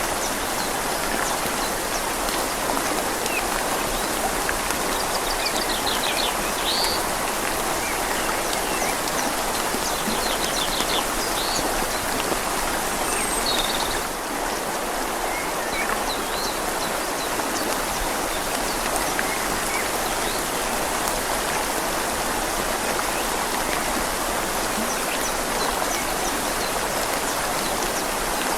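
Steady rain falling on leaves over a flowing river, an even wash of water sound. A few faint, short bird chirps come in the first half.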